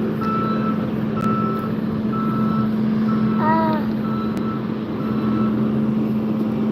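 A vehicle's reversing alarm beeping about once a second, six beeps, then stopping near the end, over a steady engine hum.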